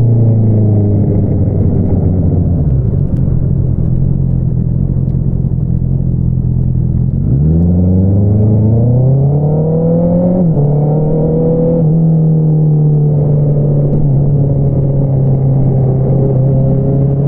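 2022 Honda CBR650R's inline-four engine running through an Akrapovič single-outlet exhaust. The engine note falls away in the first few seconds as the bike slows, later climbs steadily under acceleration, drops sharply at a gear change about ten seconds in, then holds a steady cruise.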